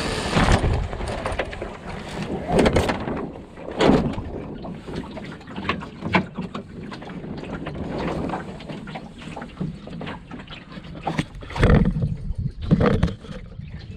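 Enterprise sailing dinghy under way: water splashing and washing against the hull, with wind buffeting the microphone. There are irregular louder surges and knocks, the strongest about 3 to 4 seconds in and again near 12 seconds.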